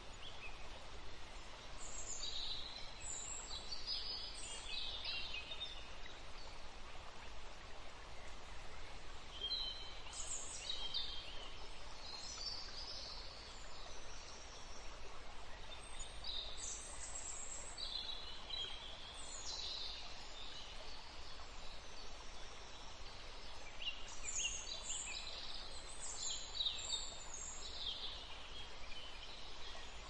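Small wild birds calling and singing in several scattered bursts of high chirps over a steady outdoor hiss.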